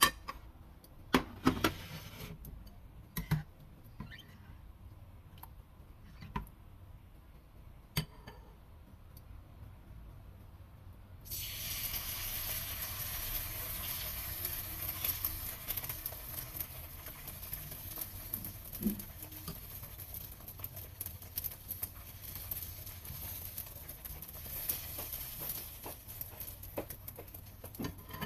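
A few sharp clicks and knocks of utensils on dishes, then about a third of the way in a sudden steady sizzle as pancake batter is ladled into hot oil in a nonstick pan and fries.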